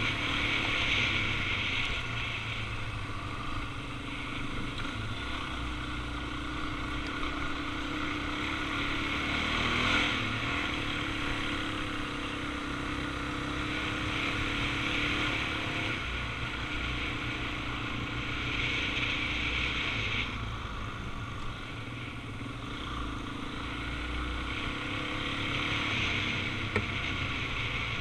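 Suzuki DR-Z400's single-cylinder four-stroke engine running steadily under way, with a constant rush of wind and road noise over it.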